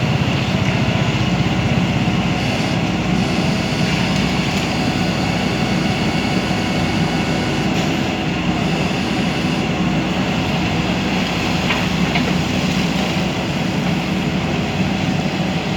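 Backhoe loader's diesel engine running steadily under load as the machine works.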